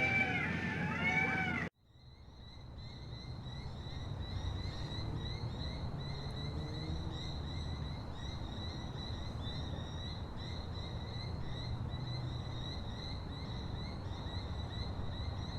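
Wild natural ambience. Loud, repeated arching animal calls stop abruptly about two seconds in. A steady high-pitched trill then fades in, with faint high chirps above it and a low rumble beneath it.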